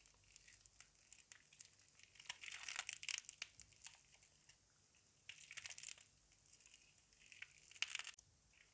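Soaked laundry soap being crushed and worked by hand, giving a wet, crackly crunch that comes in irregular bursts, loudest about two to three seconds in, around five to six seconds, and once sharply near the end.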